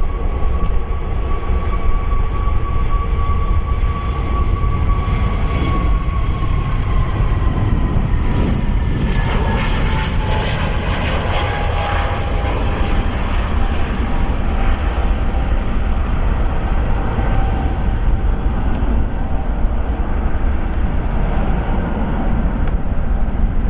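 Airbus jet airliner's engines at takeoff thrust over a heavy rumble, with a steady whine that drops in pitch as the plane passes, the sound loudest and brightest about halfway through.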